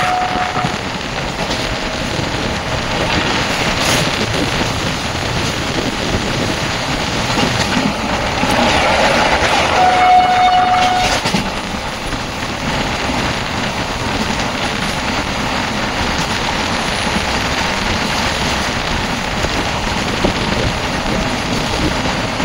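Intercity Express train running at speed: a loud, continuous rush of wheel and track noise. The train horn sounds as the clip begins and again for about a second near the middle.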